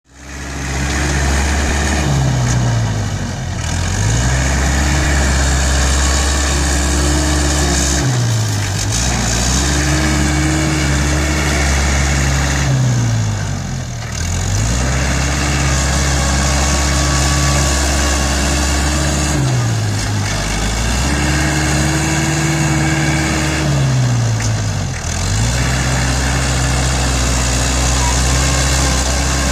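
ISEKI NT554 tractor's diesel engine running hard while grading and pushing soil. Its pitch dips sharply and recovers about every five to six seconds, as the engine slows and picks up again.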